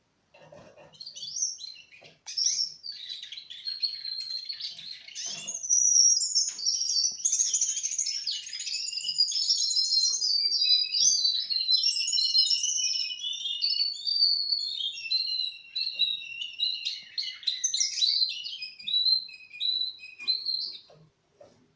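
Four-month-old male Russian canary singing a long, continuous song of rapid trills, rattles and high warbles. It starts about two seconds in and stops just before the end.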